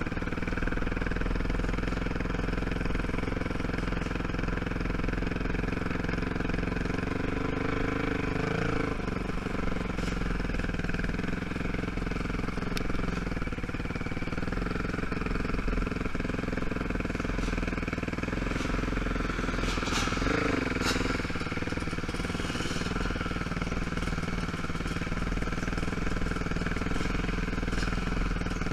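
ATV (quad) engine running steadily at slow trail-riding speed, its note shifting briefly twice as the throttle changes, with a few knocks and clatters near the second shift.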